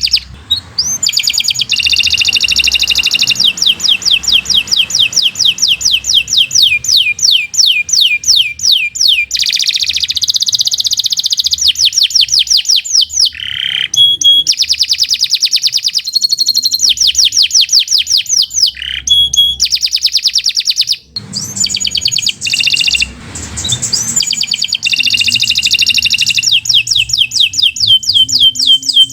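Domestic canary singing a long, continuous song of rapid trills: runs of fast repeated high notes, each run shifting in speed and pitch, with only brief pauses between phrases.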